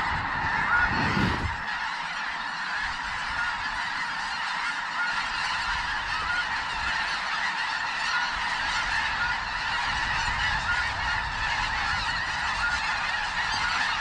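A large flock of snow geese calling, a dense, continuous chorus of overlapping high honks. There is a brief low rumble about a second in.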